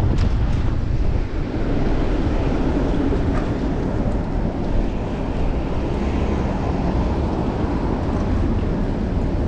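Steady wind rushing over a chest-mounted action camera's microphone while cycling, with a low rumble of road and traffic noise underneath.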